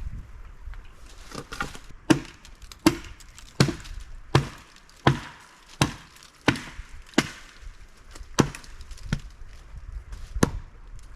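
Axe chopping wood: a steady series of about a dozen sharp blows, roughly one every three-quarters of a second, starting about two seconds in.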